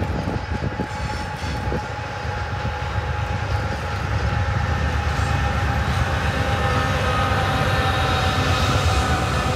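A train rolling past, a steady low rumble with thin high-pitched tones above it, growing gradually louder.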